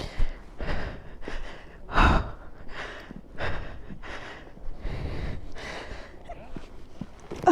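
A woman breathing hard and panting, about two breaths a second, from the effort of carrying heavy bags.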